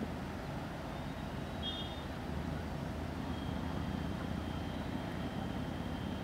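Low steady rumble of distant electric trains approaching, among them a WAP-7 locomotive hauling a double-decker express. A faint thin high tone comes in briefly about two seconds in and again through the second half.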